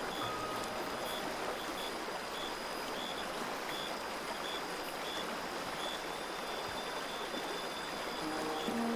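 Steady rushing of a flowing stream, with a faint short high tone repeating regularly over it. Soft held music notes come back shortly before the end.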